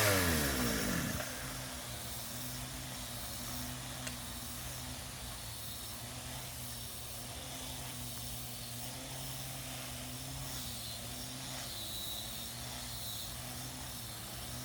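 A power tool's motor winding down, its pitch falling over about the first second, followed by a low, steady hum with a slight waver.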